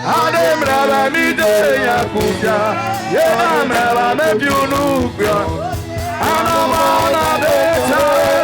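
Worship song: a man singing a flowing melody over sustained instrumental backing.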